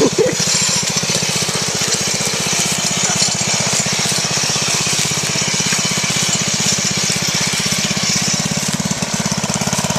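Riding lawn mower engine running steadily while the mower is driven, its firing pulses coming fast and even, with a hiss of noise over the top.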